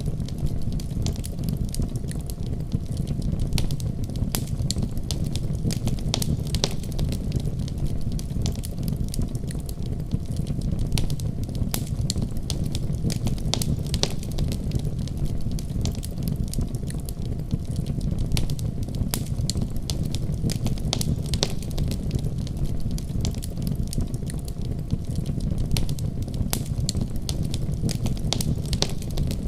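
Wood fire crackling in a fireplace, with many small irregular pops and snaps over a steady low rumbling noise.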